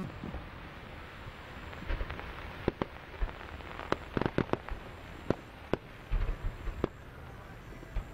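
Aerial fireworks going off: a run of sharp, irregular bangs and crackles over a steady rumbling haze, thickest in the middle of the stretch.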